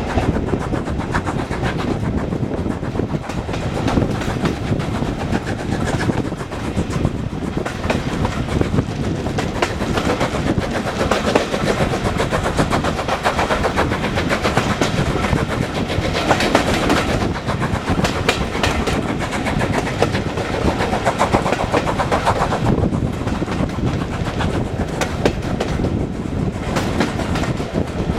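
Heritage railway train running along the line, its wheels clicking steadily over the rail joints with a continuous rattle and rumble.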